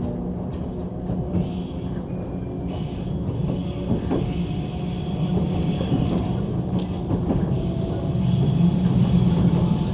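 JR 185 series electric train running, heard from inside the passenger car: a steady rumble of wheels on rail, growing louder in the second half, with a faint rising motor whine near the end.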